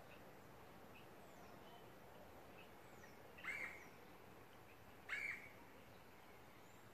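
Two short bird calls about a second and a half apart, over near silence with a few faint high chirps.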